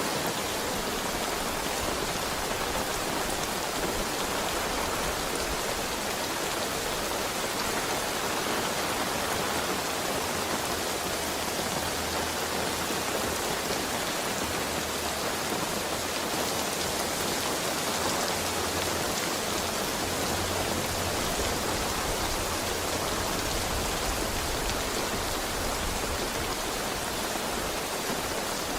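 Heavy rain falling steadily, an even unbroken hiss of rain with no thunder.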